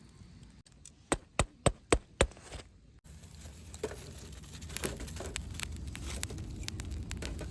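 Five sharp clicks in quick, even succession, then a wood campfire crackling, with a steady low rush and scattered pops from the burning logs.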